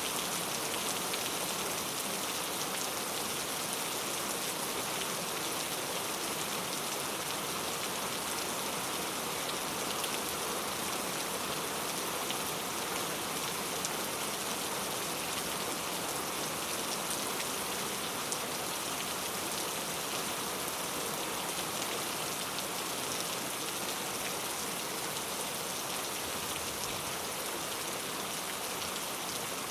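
Heavy rain falling steadily: an even hiss with the patter of individual drops.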